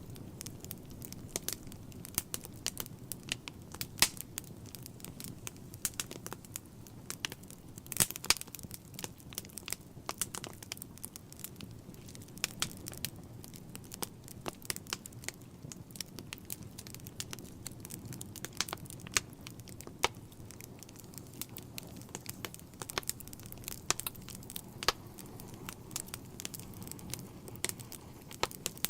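Wood fire burning in a fireplace, crackling and popping irregularly over a low steady rumble of the flames, with a brief cluster of louder pops about eight seconds in.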